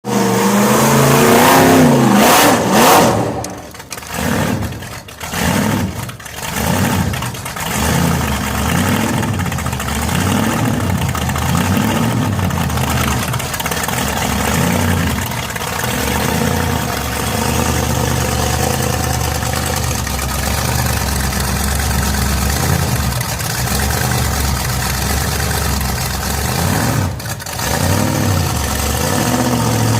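Gasser drag car's engine revving hard. It blips on and off in short bursts for a few seconds, then holds at high revs while the car spins its rear tyres in donuts, with one brief lift off the throttle near the end.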